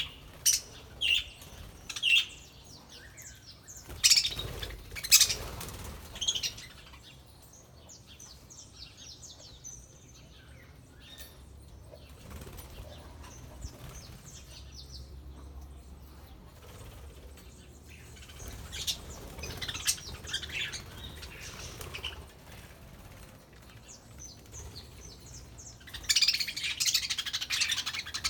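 A flock of budgerigars chirping, with flapping wings. There are several sharp calls in the first few seconds, scattered quieter chirping in the middle, and a burst of dense chattering near the end.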